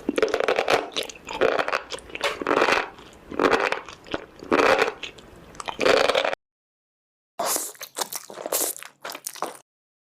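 Crunchy food being bitten and chewed, in about five loud crunching bouts. After a sudden cut to silence come about two seconds of sharper, crackling crunches.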